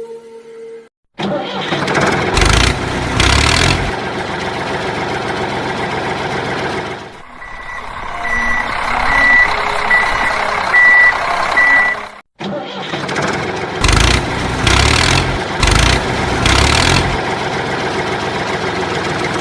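Vehicle engine running, surging louder several times, with a reversing beeper beeping about once a second for a few seconds in the middle. The sound starts abruptly a second in and cuts out briefly about two-thirds of the way through.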